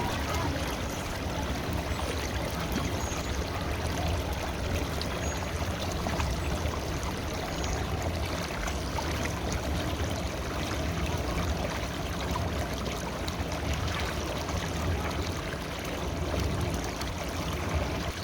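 River water flowing steadily, an unbroken rushing with a deep low undertone.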